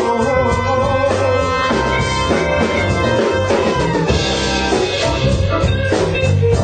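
A band playing an instrumental passage without vocals, the drum kit to the fore under sustained pitched instrument lines.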